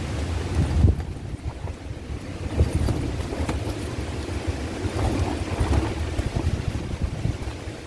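Strong gusting wind buffeting the microphone: a low rumble that surges and eases irregularly, loudest about a second in and again a moment later.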